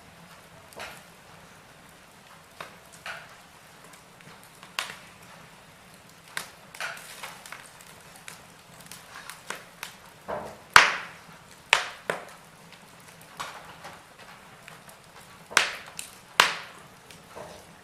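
Wood fire crackling in a fireplace: irregular sharp pops and snaps over a faint steady hiss, coming more often and louder in the second half.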